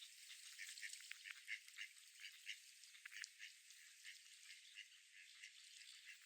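Ducks quacking faintly: a continuous run of short quacks, several a second, overlapping one another.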